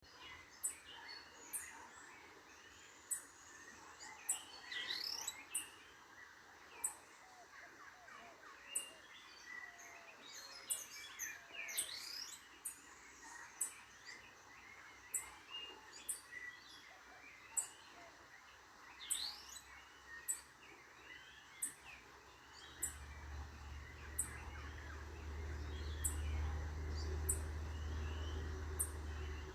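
Several wild birds calling and singing, with short chirps and quick rising and falling whistles. A very high, short tick repeats about once a second, and a low rumble comes in near the end.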